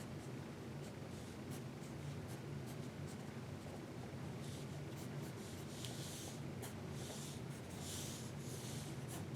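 Pencil drawing on paper: short scratchy strokes, then longer hissing strokes in the second half, over a low steady hum of room tone.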